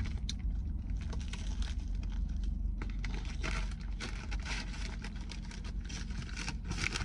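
Paper food wrapper crinkling and tearing in irregular bursts as a grilled cheese sandwich is unwrapped, over the steady low road rumble inside a moving Honda HR-V's cabin.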